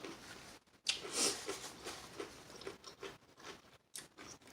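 A person biting and chewing crispy fried chicken wings into a close microphone. There is a sharp crunch about a second in, then irregular crunchy chewing.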